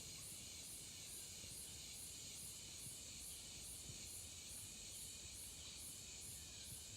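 Faint chorus of insects: a high, evenly pulsing chirp about two to three times a second over a steady high hiss.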